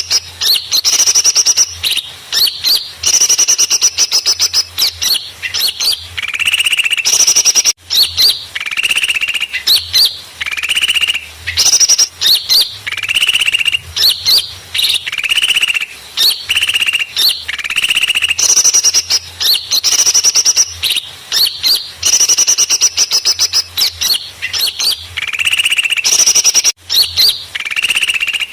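Bird-lure recording of small birds calling noisily: high chirps and rapid trills overlapping one another without pause, broken by two brief dropouts.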